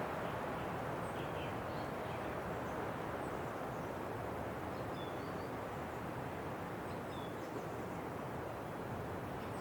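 Steady winter wind blowing as an even rushing noise, with a few faint, short high chirps scattered through it.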